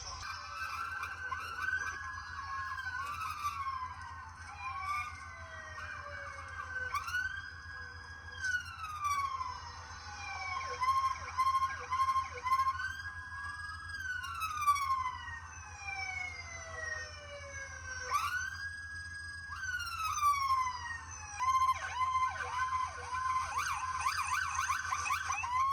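Police motorcycle siren cycling through its tones: slow wails that rise, hold and then fall away over a few seconds, repeated several times, alternating with runs of quick short yelps, over a steady low hum.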